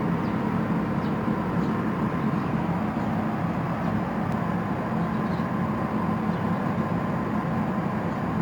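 Steady low mechanical rumble with a faint steady hum above it, unchanging throughout.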